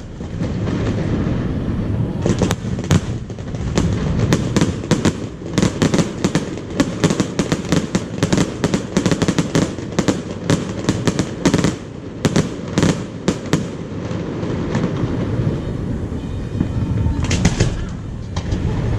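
Fireworks display: many quick sharp cracks and pops over a continuous low rumble of booms, coming thick and fast for most of the time, thinning out about three-quarters through, then a short cluster of cracks near the end.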